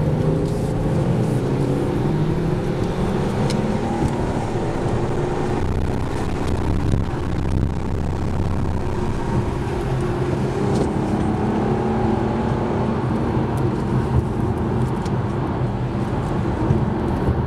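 Car engine pulling hard under full acceleration, heard from inside the cabin, its pitch climbing slowly, over steady road and wind noise.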